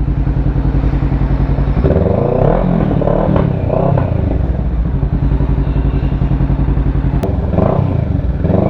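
Kawasaki Ninja 650's parallel-twin engine running, its pitch rising and falling with throttle changes from about two seconds in as the bike sets off.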